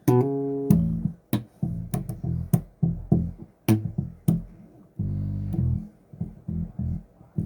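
Bass guitar played solo: a run of low plucked notes with sharp clicking attacks, some notes held for about a second.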